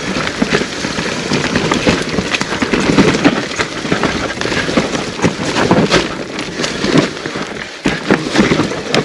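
Mountain bike clattering over a rough forest trail: a dense, continuous crackle of knocks and rattles from tyres, chain and frame running over roots and dry leaves.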